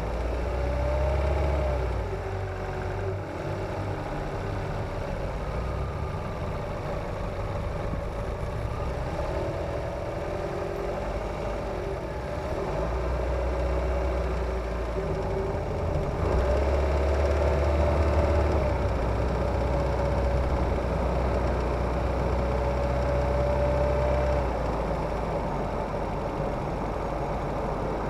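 Kia Ceed's G4FG 1.6-litre four-cylinder petrol engine running while driving, heard close up from under the bonnet. It pulls harder for a couple of seconds at the start and again through the middle, easing off near the end. The owner reports a knock on acceleration from cold that fades once the engine is warm.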